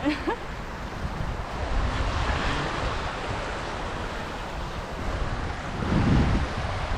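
Surf washing onto a sandy beach, with wind buffeting the microphone; a stronger gust comes near the end.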